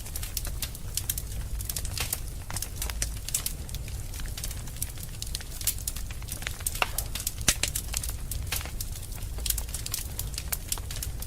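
Wood fire in a fireplace crackling: irregular sharp pops and snaps over a steady low rumble of the flames, with one louder pop about seven and a half seconds in.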